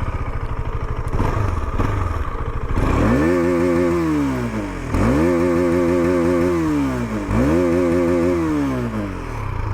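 KTM Duke 250 BS6's single-cylinder engine, breathing through a full-system Akrapovic exhaust, idling and then revved three times. Each rev rises, is held for about a second and falls back to idle.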